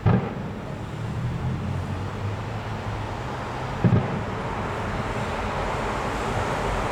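Fireworks shells bursting: two heavy booms, one right at the start and one about four seconds in, over a steady low rumble.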